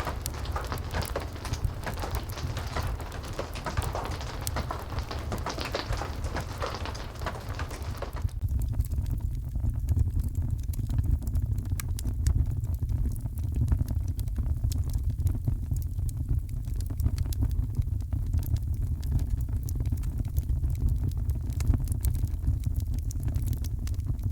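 Heavy rain hissing with a fireplace crackling and a low rumble under both. About eight seconds in, the rain hiss cuts out abruptly, leaving the low rumble and sparse fire crackles.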